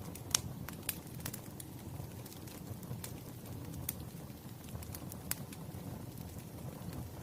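Wood fire crackling: irregular sharp pops and snaps over a steady low rumble of burning, with one louder pop about a third of a second in.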